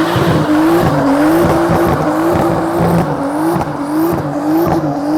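Nissan Skyline GT-R R34's twin-turbo straight-six (RB26DETT) held at high revs while the car spins its tyres, with tyre squeal throughout. The engine note rises and dips in regular pulses, roughly every half second.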